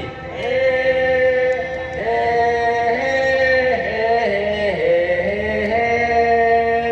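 A singer performing a Thai song, holding long drawn-out notes that slide and bend in pitch every second or so.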